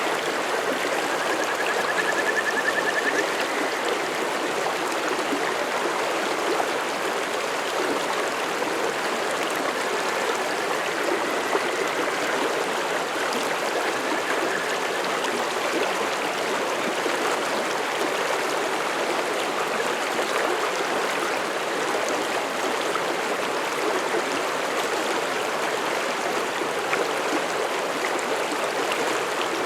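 Forest mountain stream flowing steadily, an even, unbroken rush of water with a faint thin high tone over it in the first few seconds.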